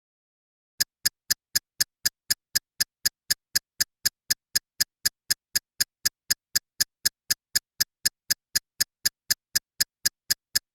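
Even, sharp ticking, about four clicks a second, starting just under a second in and stopping just before the end, with dead silence between the clicks.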